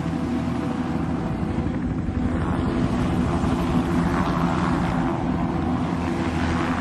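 Helicopter in flight: a steady engine and rotor drone with a low hum, swelling with rushing noise a few times.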